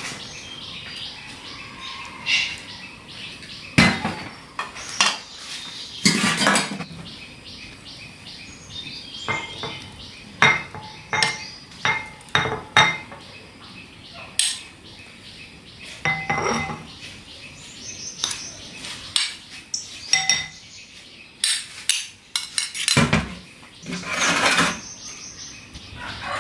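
Bowls, pots and spoons clinking and knocking at irregular intervals, a few louder knocks among lighter clinks, as a cooked meal is dished up and eaten.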